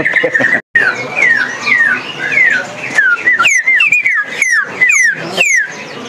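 A caged songbird calling a run of short, clear whistled notes, each sliding downward in pitch, about two a second.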